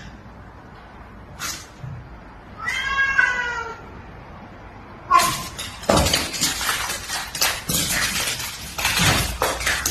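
A cat meows once, a call of about a second. From about five seconds in comes a busy run of knocks, rustling and scuffling.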